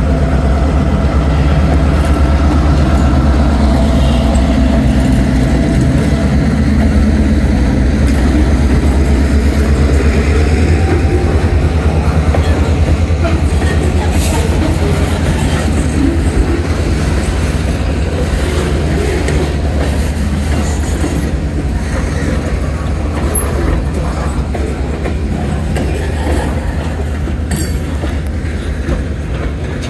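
EMD GP38-2 diesel locomotive, a 16-cylinder EMD 645 engine, running as it passes close by; its engine sound fades over the first several seconds. Then the loaded centerbeam flatcars and boxcars roll steadily past, with occasional wheel clacks over rail joints.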